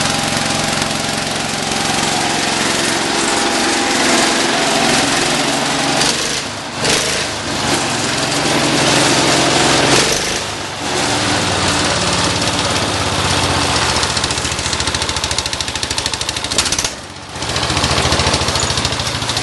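Cub Cadet 147's Kohler K321 14-horsepower single-cylinder engine running just after a cold start, its speed shifting and its sound dipping briefly about a third of the way in and again near the end.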